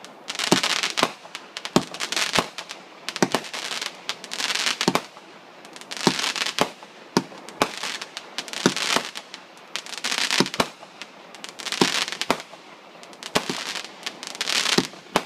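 Fireworks going off in quick succession: sharp bangs about one to two a second, many of them followed by a short spray of crackling.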